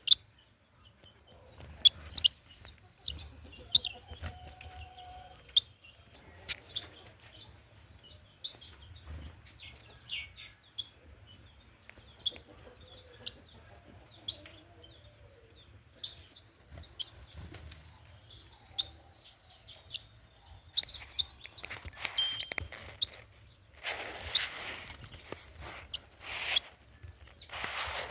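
Small birds chirping: short, sharp, high chirps scattered throughout, with louder, fuller bursts of sound in the last several seconds.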